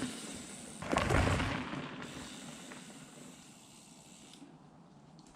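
Mountain bike riding noise on an action camera's microphone: a loud low thump about a second in, then a steady hiss of wind and rolling noise that slowly fades.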